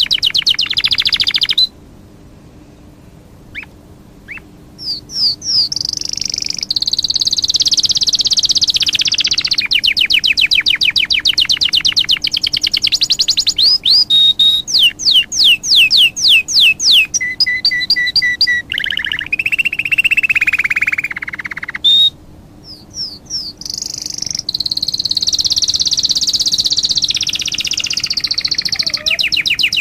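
A songbird singing: fast trills, runs of quick chirps and clear whistled phrases, changing phrase every few seconds. It breaks off abruptly about two seconds in and again around twenty-two seconds, then resumes.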